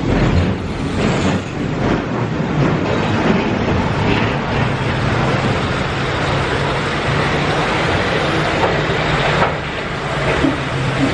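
The Turtle's ride cars rumbling steadily as they roll around their circular, hilly track, heard from aboard.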